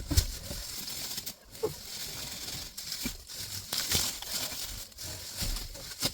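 Loose dry hay rustling and crackling unevenly as it is spread by hand for fresh bedding.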